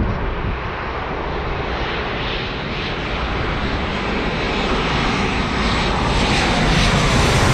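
Jet airliner's engines, a steady rushing roar that grows gradually louder and brighter as the aircraft approaches.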